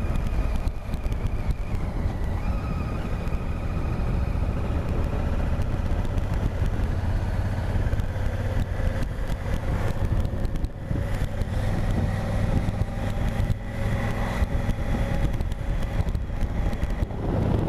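Honda Africa Twin's parallel-twin engine running steadily while riding, with wind and road noise on the microphone.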